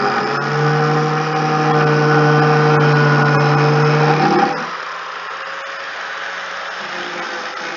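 A motor running steadily at one constant pitch, which drops away about four and a half seconds in, leaving a quieter background.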